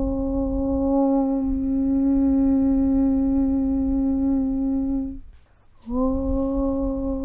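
A long hummed 'Aum' chant held on one steady low pitch over a low rumble. It breaks off briefly about five seconds in, then starts again, sliding quickly up into the same note.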